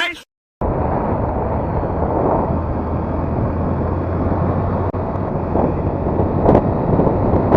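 Vehicle running with road noise and wind buffeting the microphone, a steady low engine hum under a rushing noise; it starts after a brief gap of silence.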